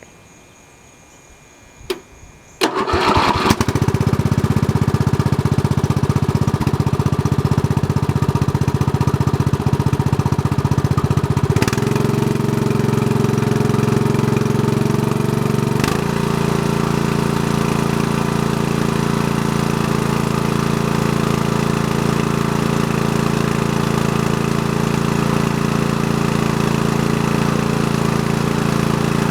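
Briggs and Stratton 14 HP vertical-shaft overhead-valve engine starting: a click about two seconds in, then a brief crank on its electric starter, and it catches at once and runs steadily. Its note shifts twice, at about twelve and sixteen seconds, as the engine speed changes.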